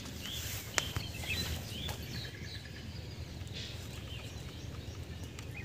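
Faint background noise with scattered short bird chirps, and a single sharp click just under a second in.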